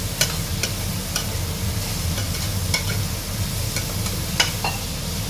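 Chopped onions and chilies sizzling in hot oil in a pressure cooker while a spoon stirs them, with frequent short clinks and scrapes of the spoon against the pot.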